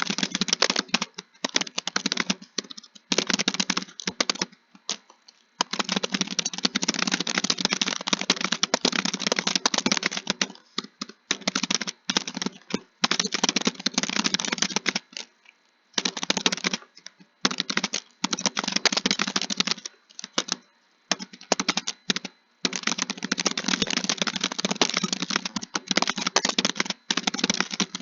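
Fast typing on a keyboard: dense runs of key clicks, each lasting a few seconds, broken by short pauses.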